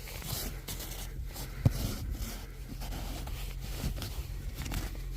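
Footsteps crunching through a few inches of fresh snow, irregular and uneven, with one sharp click a little under two seconds in.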